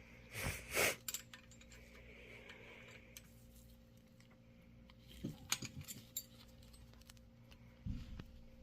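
Light metallic clinks and taps of hand tools and small engine parts being handled: two near the start, a quick run of clinks around the middle, and a heavier knock near the end.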